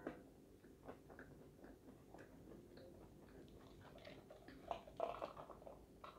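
Faint close-up chewing of fried food, with soft mouth clicks scattered throughout. About five seconds in comes a short, louder spell of rustling and sipping as a paper soda cup is lifted and drunk from through a straw.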